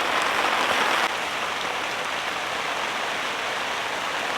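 Heavy rain pouring steadily, a dense even hiss of drops. It drops a little in loudness about a second in.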